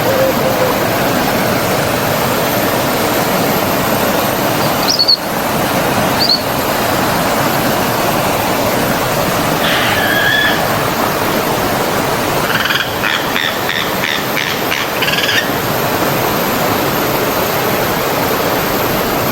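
Stream water flowing steadily, with birds calling over it: two short high chirps about five and six seconds in, a call near ten seconds, and a quick run of repeated notes, about four a second, from about thirteen to fifteen seconds.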